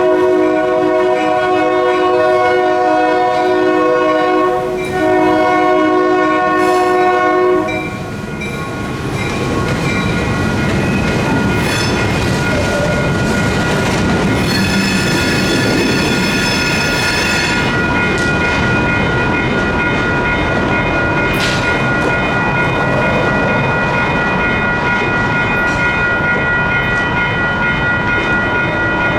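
Union Pacific GP38-2 locomotive horn blowing two long blasts with a short break about five seconds in, stopping about eight seconds in. Then the freight train rolls through the crossing with a steady rumble of engine and wheels, while the crossing's electronic bells keep ringing and a high squeal rises for a few seconds midway.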